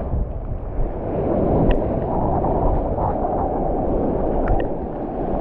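Strong wind rumbling on a GoPro Hero 9's microphone, mixed with the wash of surf and sloshing water, as a steady low noise with a few faint clicks.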